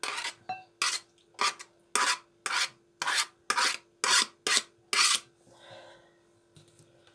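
Rhythmic rasping strokes of food being rubbed across a hand grater, about two strokes a second, stopping about five seconds in.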